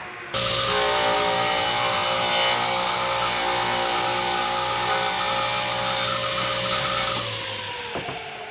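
An electric power tool switches on, runs at steady speed with a rasping, rubbing sound of abrasive work on a part, then is switched off about seven seconds in and spins down with falling pitch.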